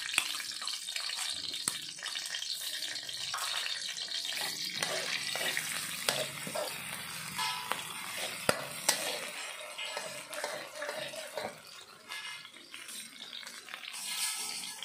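Chilies frying in hot oil in a pan: a steady sizzle, with a spatula stirring and scraping, and a couple of sharp clinks of the spatula on the pan a little past halfway. The sizzle gets quieter near the end.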